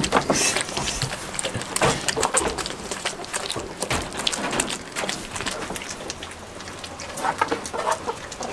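Rain pattering, with many irregular drips and taps over a steady hiss.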